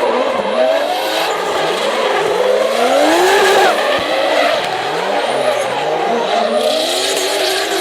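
Toyota Supra Mk4's 2JZ inline-six engine revving up and down repeatedly through a drift, with tyres squealing.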